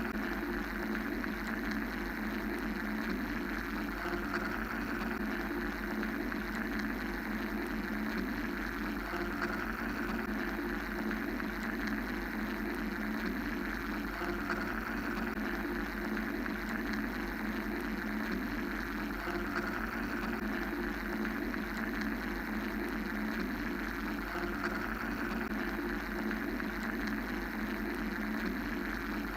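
Steady mechanical-sounding ambient white noise, a constant hum-like rush made of a deep low band, a mid band and a higher hiss that swell and ebb slowly.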